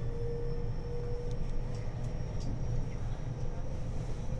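A 521 series electric train running, heard from inside the car: a steady low rumble of wheels on rail with a faint steady whine and a few light clicks.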